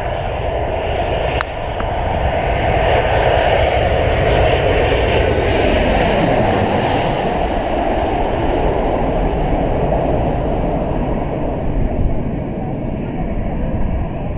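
Aircraft engine noise from a plane passing low on landing approach, swelling to a peak about six seconds in and then easing off.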